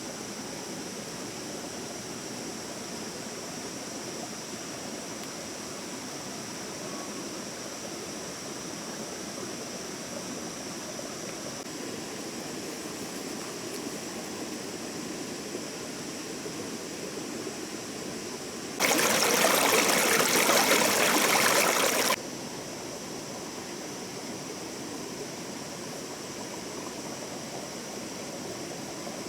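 Stream water flowing steadily. About two-thirds of the way through, a much louder hissing rush lasts about three seconds, starting and stopping abruptly.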